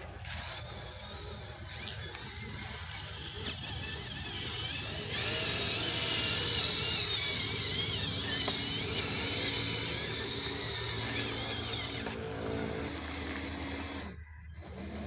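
Small electric motors and gearboxes of radio-controlled model construction trucks whining, getting louder about a third of the way in, their pitch wavering up and down as the throttle changes.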